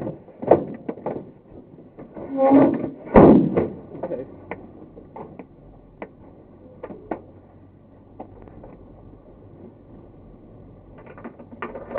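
Glider cockpit on aerotow in turbulence: the airframe and canopy knock and rattle in irregular bangs, the loudest about three seconds in, over a steady rush of air.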